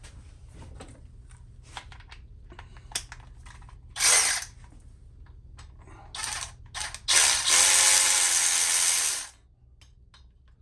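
Powered ratchet spinning out cylinder head bolts on a Harley-Davidson Sportster Evolution's rear cylinder. It runs in a short burst about four seconds in, two quick bursts a couple of seconds later, then a steady run of about two seconds. Light clicks of tools come before it.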